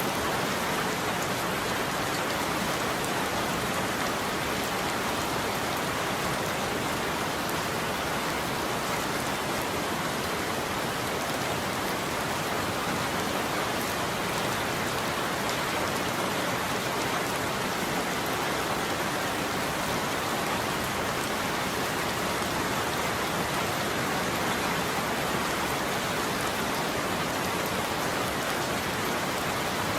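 Steady heavy rain falling on a surface, a dense even patter with no thunder.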